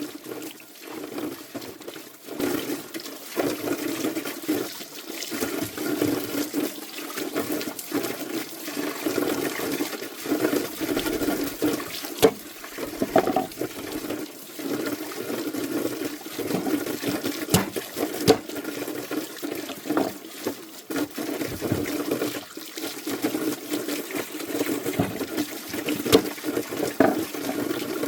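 Water splashing and sloshing unevenly, with a few sharp knocks.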